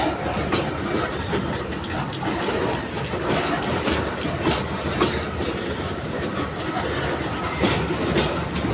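Wagons of an empty freight coal train rolling past, a steady rumble of steel wheels on rail with a running clatter of irregular clicks as the wheels cross the rail joints.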